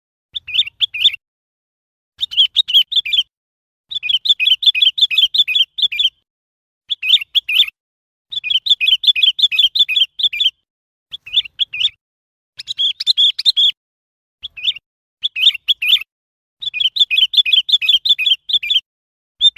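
Sooty-headed bulbul calling: phrases of quick repeated chirping notes, about five a second, each phrase lasting one to two seconds with short silent gaps between them.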